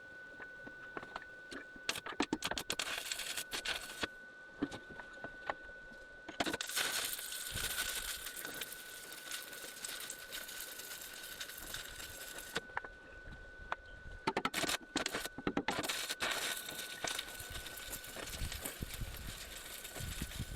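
Arc welding crackling and spitting in three runs, the longer two about six seconds each, as a steel plate is welded over an old hull fitting hole to seal it. A steady high tone runs underneath.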